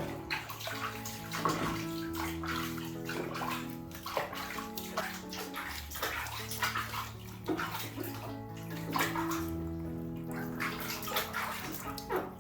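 Water splashing and sloshing in a bath as young monkeys are washed, in irregular bursts over steady background music.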